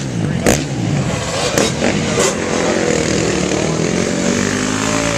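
KTM dirt bike engine revving, its pitch rising and falling. Several sharp knocks or clicks come in the first couple of seconds.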